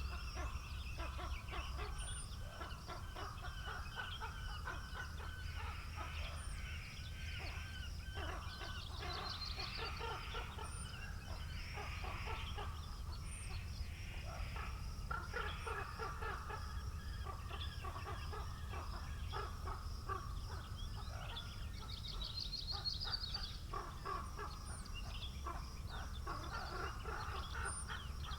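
Several birds calling over one another in a steady jumble of short calls, with a brief high trill about nine seconds in and another near twenty-three seconds, over a steady low wind rumble.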